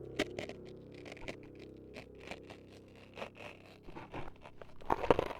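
Close-miked ASMR scraping, clicking and crunching sounds that simulate ears being cut up, as irregular sharp scratches that grow louder near the end. A low steady drone fades out beneath them.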